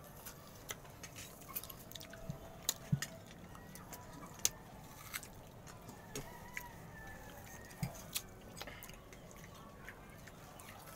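People chewing and biting into crisp green mango: scattered sharp, crunchy clicks at irregular intervals.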